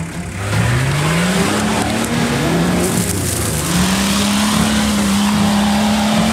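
Off-road 4x4's engine revving up twice in rising surges, then held steady at high revs under load as it climbs a steep dirt slope.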